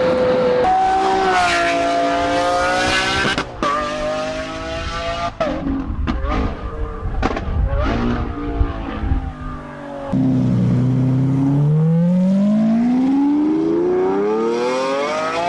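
Lamborghini Aventador SVJ's V12 through a Novitec exhaust being revved, then popping and crackling in a string of sharp cracks as the revs drop off. Near the end it is revved again in one long, steady climb in pitch.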